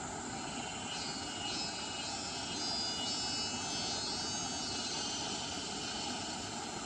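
Steady rush of a stream's flowing water. A faint high whine of several close tones comes in about a second in and fades out by about five seconds.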